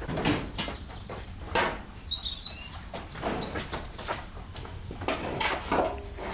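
A small bird chirping, a quick run of short high notes in the middle, over several dull knocks and rustles.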